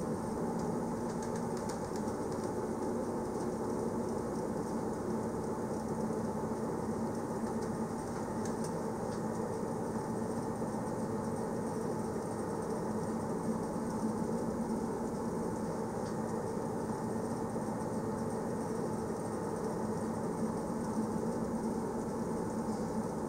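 Passenger train running steadily on the rails: a constant rumble with a steady hum and faint light rattles.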